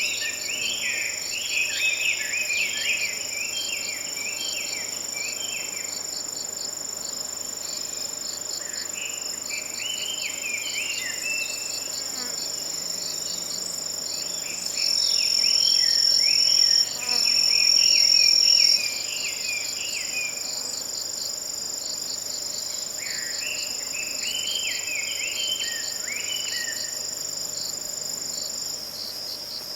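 Forest ambience of autumn insects: a steady high-pitched trill runs beneath rapid, evenly pulsed chirping, with bouts of chattering bird calls coming and going. About 15 seconds in, a louder high trill sounds twice, each time for about two seconds.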